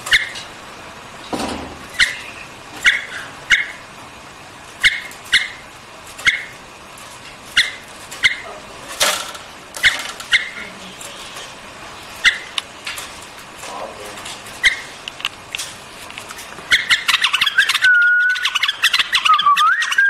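White-eared bulbul calling in short, sharp notes, about one a second. Near the end this gives way to a faster run of warbling song with gliding whistled notes.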